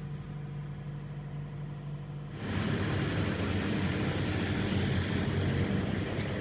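Semi-truck engine idling with a steady low hum. About two and a half seconds in, this changes abruptly to louder, rougher engine noise.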